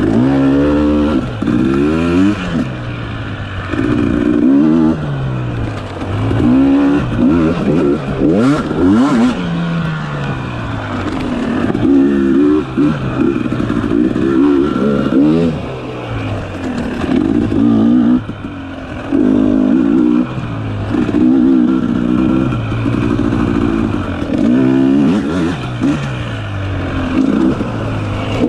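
Dirt bike engine revving up and falling back over and over, about every one to two seconds, as the throttle is worked on and off on tight singletrack.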